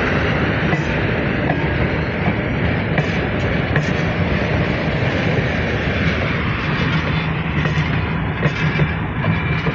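Passenger train rolling in behind a GE diesel-electric locomotive, number 2591: a steady rumble with a low engine hum, and irregular sharp clicks of wheels over rail joints. The rumble eases slightly as it goes on.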